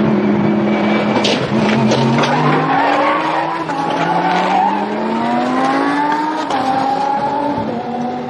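Lamborghini Essenza SCV12's naturally aspirated V12 racing engine accelerating hard, its pitch climbing and dropping at each upshift.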